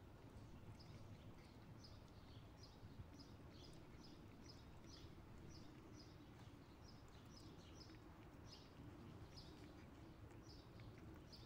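Very quiet outdoor ambience: a small bird chirping repeatedly, short high notes about once or twice a second, over a low steady rumble.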